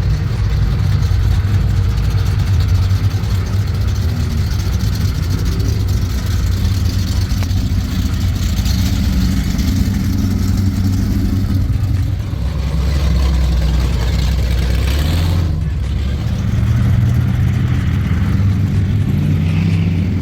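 Hot rod and muscle car engines running loud with a deep rumble, dropping in pitch about twelve seconds in and revving up again near the end.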